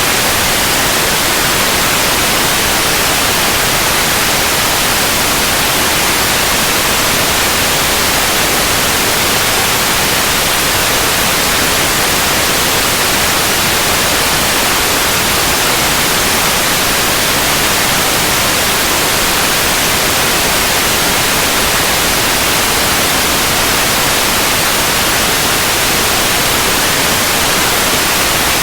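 Steady, unbroken white noise: an even hiss spread across the whole range, brightest in the highs, with no change in level.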